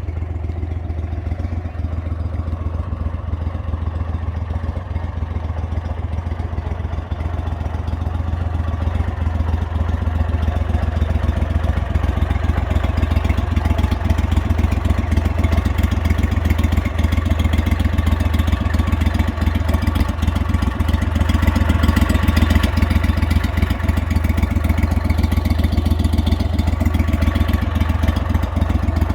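Go-Devil surface-drive mud motor idling steadily, getting a little louder after about ten seconds.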